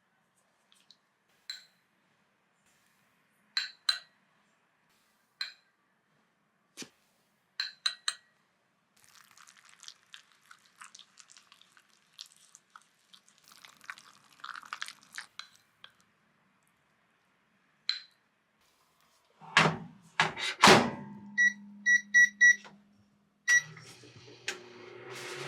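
Light utensil clicks and soft stirring in a container. Then a couple of loud thuds as a microwave oven door is shut, a quick run of short keypad beeps, and the microwave starting to run with a steady hum near the end.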